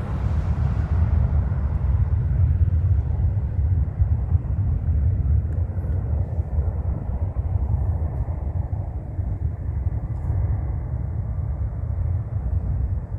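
Low rumble of a Gulfstream G650's twin Rolls-Royce BR725 turbofans as the jet climbs away after takeoff, the higher part of the roar dying out in the first second or so and only a deep rumble remaining.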